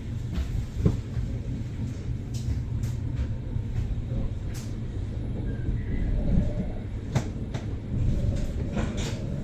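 Double-deck sleeper train running, a steady low rumble with scattered irregular clicks and knocks.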